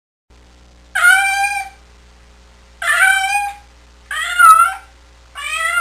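An animal calling four times, each a pitched call of well under a second that bends slightly in pitch, evenly spaced over a faint steady low hum.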